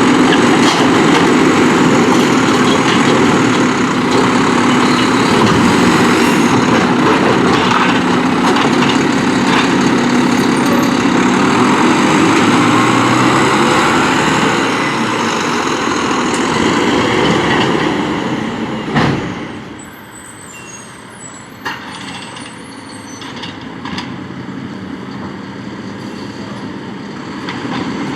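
Mack LR refuse truck's diesel engine revving hard and holding high for about 18 s, its pitch shifting. About 19 s in there is a short sharp burst, then the engine drops back to a much quieter idle with a few faint high squeaks and clicks.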